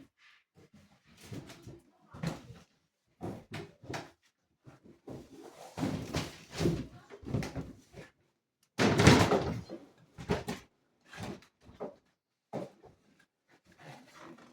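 A series of knocks, thumps and clatter from objects being handled and moved, with one loud crash about nine seconds in.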